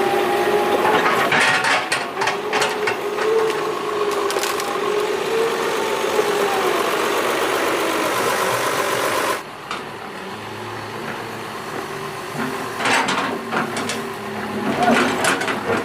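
Doosan 140 excavator's diesel engine running under load, with a wavering hydraulic whine and scattered knocks from the machine at work. About nine seconds in, the sound drops abruptly to a quieter run of the engine, with more knocks near the end.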